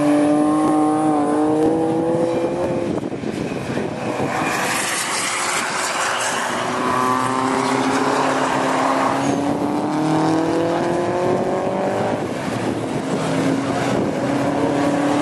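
Rally car engines running under load, their notes rising slowly in pitch three times as they accelerate around the track, with a rushing hiss about four to six seconds in.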